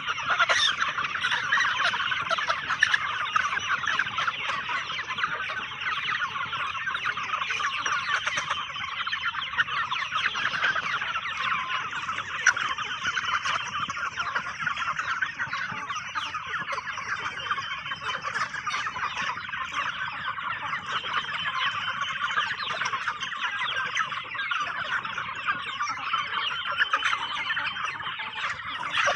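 A flock of chickens calling all at once as they are fed, a dense, continuous chatter of many overlapping clucks and calls.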